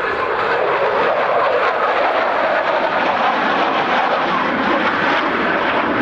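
Jet engine of a US Air Force F-16 Fighting Falcon flying a display pass: a loud, steady rush of jet noise.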